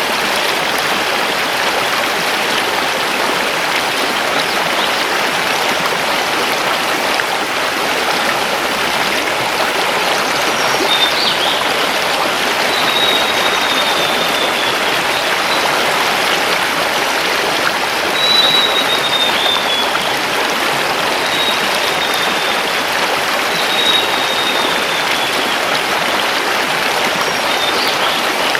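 A mountain river running steadily over stones. From about ten seconds in, a forest bird joins with several thin, high, slightly falling notes.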